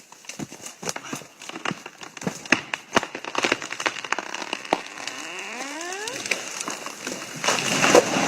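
Wood cracking and splintering with irregular sharp knocks as hammers drive wedges into a giant tree to fell it. A rising creak comes about five seconds in, and a louder rush of noise follows near the end.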